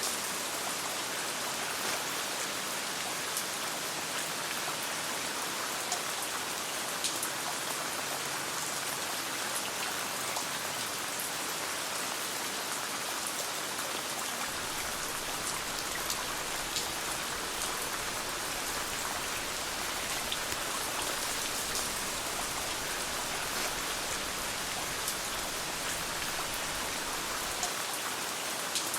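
Steady rain falling and pattering, with scattered sharp crackles of a campfire over it.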